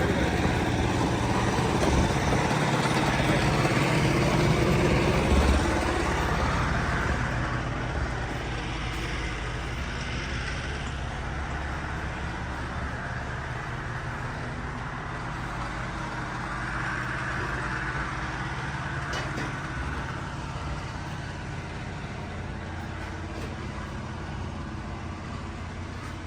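An engine running steadily, loudest for the first six seconds, then fading to a lower, even hum.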